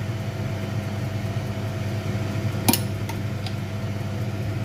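Steady low hum of a small machine, with one sharp tap about two and a half seconds in.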